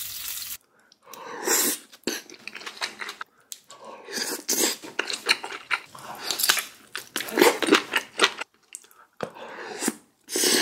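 Close-miked chewing and crunching of food, in several bursts of rapid clicks with short pauses between them.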